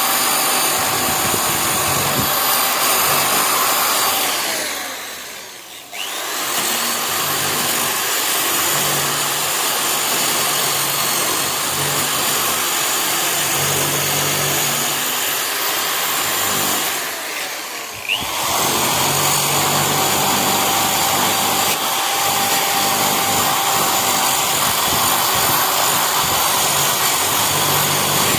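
Electric power tool motor running at speed with a steady whine. Twice it is switched off and winds down, then switched back on and spins up again about a second later.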